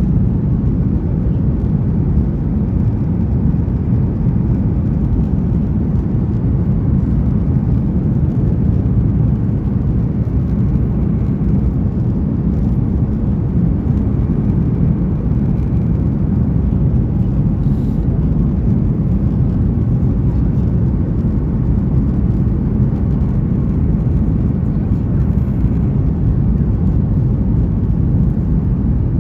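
Boeing 737-900ER cabin noise heard from an economy window seat: a steady, even low rumble of the CFM56 engines and air rushing past, with no changes.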